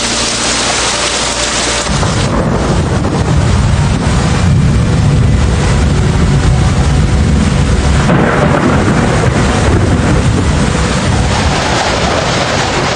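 Hailstorm: hail and rain pelting down hard in a dense, steady hiss, with a deep rumble joining about two seconds in and fading near the end.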